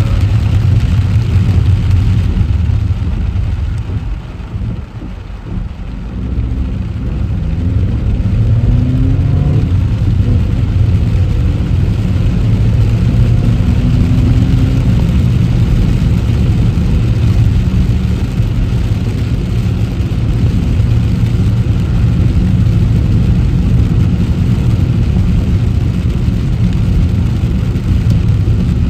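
Car driving on a city road: a steady low rumble of engine and road noise. It eases off about four seconds in, then rises again as the car accelerates, with the engine pitch climbing.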